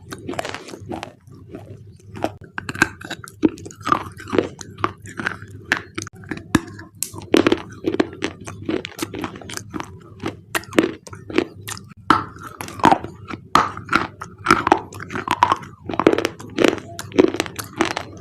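Close-up crunching and chewing of thick black slate bars: many sharp, irregular cracks, several a second.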